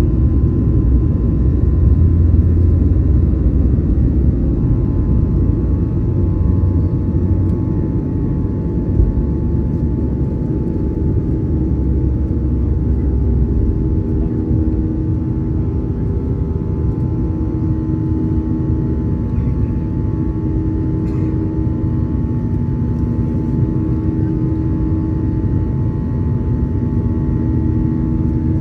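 Boeing 737-900ER's CFM56-7B jet engines running, heard inside the cabin from a window seat by the engine: a steady loud rumble with a few faint steady tones over it.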